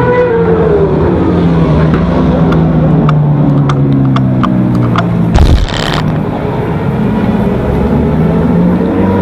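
Suzuki GSX-R600 inline-four engine at racing speed, its pitch dropping as the bike slows, then holding steady before climbing again as it accelerates near the end. A loud, short rush of noise breaks in about five and a half seconds in.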